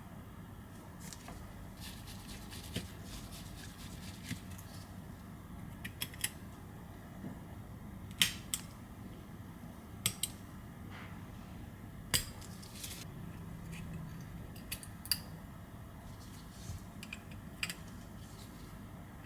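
Small metal repair tools clicking and tapping against an iPhone 11's internal parts and frame as the motherboard is freed. Sharp, irregular clicks come every second or two over a faint steady low hum.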